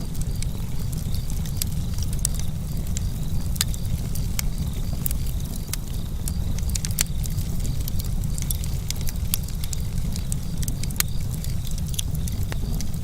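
Campfire crackling, with many sharp, irregular pops and snaps over a steady low rumble.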